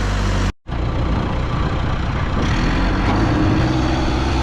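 Heavy diesel engine running steadily, with the sound cutting out completely for a moment about half a second in and then carrying on.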